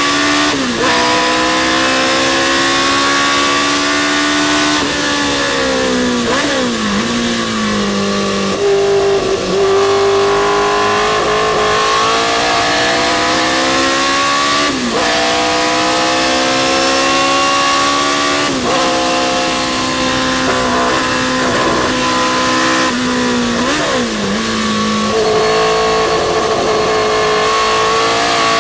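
Historic sports racing car's engine at full throttle, its pitch climbing through the gears and dropping sharply at each quick upshift. Twice the pitch falls away in steps, as for downshifts into a corner, before it climbs again.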